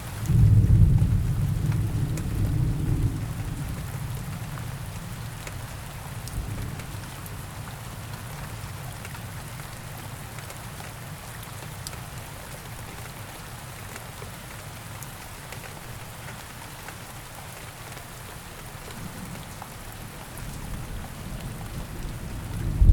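Steady rain falling, with a low roll of thunder just after the start that fades over a few seconds, and another beginning to rumble at the very end.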